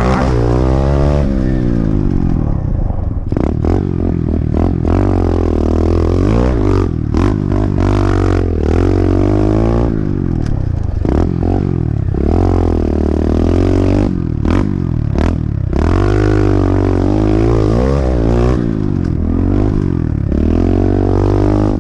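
Pit bike engine being ridden hard around a dirt track, rising and falling in pitch again and again as the throttle is opened and closed, with short knocks scattered through.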